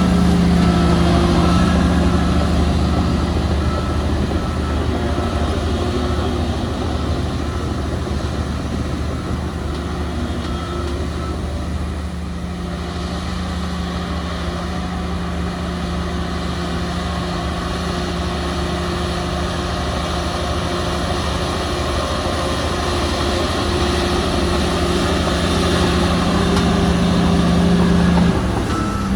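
Heavy diesel earthmoving machine engine running steadily. It eases a little about halfway through and builds again near the end.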